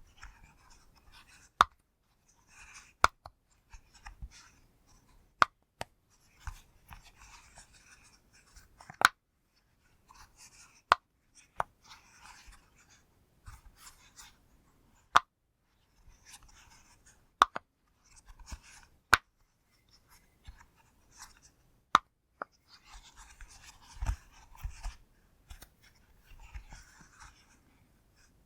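Pop fidget toy being pressed, its bubbles popping one at a time with sharp pops at irregular intervals, about one every second or two. Faint rustling of fingers handling the toy runs between the pops.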